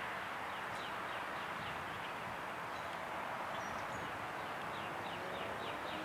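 Steady outdoor background hiss with faint runs of short, quick downward chirps, a few a second, from a small bird, coming about a second in and again near the end.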